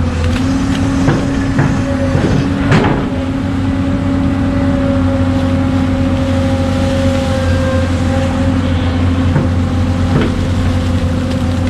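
Excavator diesel engine running at a steady speed. There is a sharp clank about three seconds in and a few lighter knocks.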